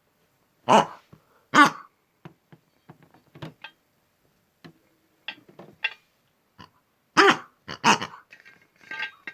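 An animal's short loud calls, two in quick succession about a second in and two more about seven seconds in, with softer clicks and knocks between them.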